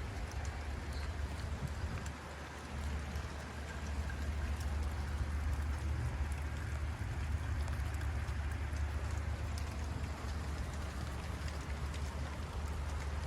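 Hail mixed with rain falling and pattering on surfaces: a steady hiss scattered with small sharp ticks. A steady low rumble runs underneath.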